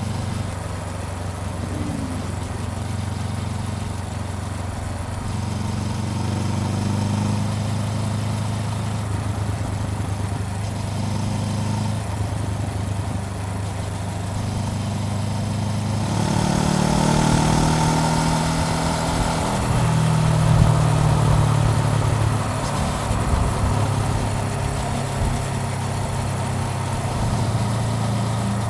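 Honda CBR400R's parallel-twin engine running steadily at low revs, then revving up a little past halfway as the bike speeds up, with rushing wind rising alongside, before settling back to a steady run.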